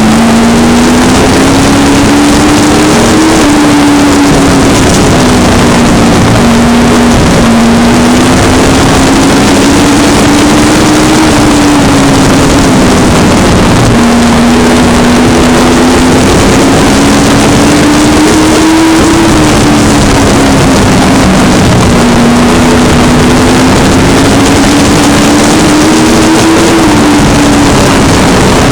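Sport truck race engines running on a short oval. The engine note climbs and falls again and again, a cycle roughly every eight seconds, over a loud, dense wash of noise.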